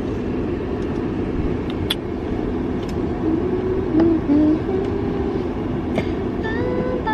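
Steady low rumble of a car idling inside a car wash bay, heard from the cabin, with a few light clicks.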